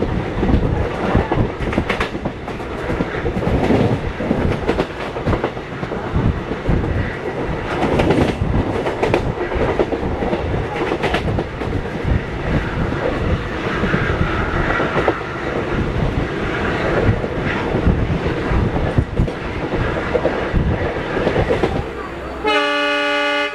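Express train running at speed, its wheels clattering over rail joints in a constant stream of clicks under a loud rumble. Near the end the sound cuts abruptly to a horn holding one steady tone.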